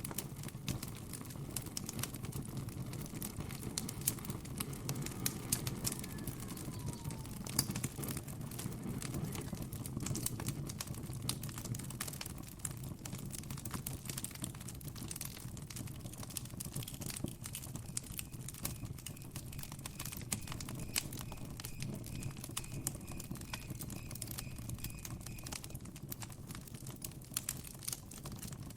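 Campfire crackling, with many irregular sharp pops and snaps over a low steady background rumble. In the second half a faint, evenly pulsed high chirping call joins in for several seconds.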